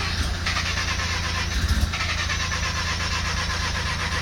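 Mazda RX-7 rotary engine being cranked on the starter motor from about half a second in, a fast, even rhythmic churning that does not catch and run: the engine won't start.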